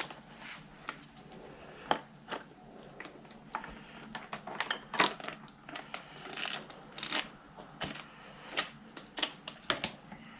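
Hand tools and small metal parts clicking and tapping irregularly while motorcycle handlebar controls are being loosened and removed.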